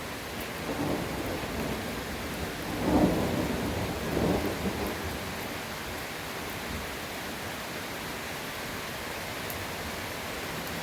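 A roll of thunder over steady rain: the rumble builds about a second in, peaks twice, and dies away about halfway through, leaving the rain alone.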